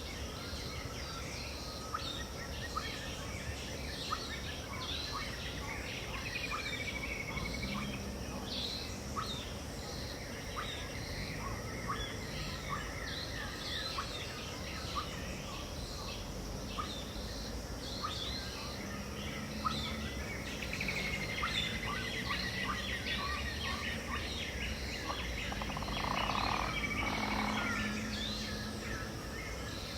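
Dawn chorus of many birds in the Pantanal wetland: a dense scatter of short chirps and calls, with a few longer falling calls standing out, over a steady high hiss.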